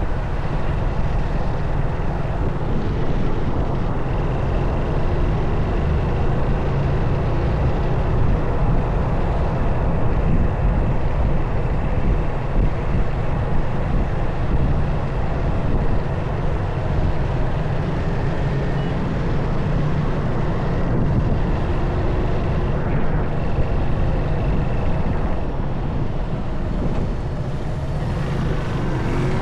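Motorcycle underway: engine running steadily under heavy low wind rumble on the microphone.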